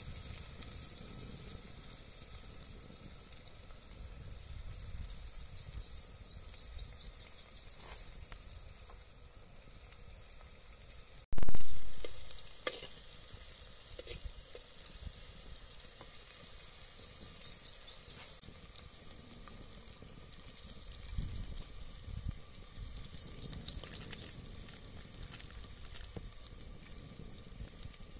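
Chopped vegetables sizzling in a clay pot over a wood fire, stirred now and then with a steel ladle. A sudden loud knock comes about eleven seconds in.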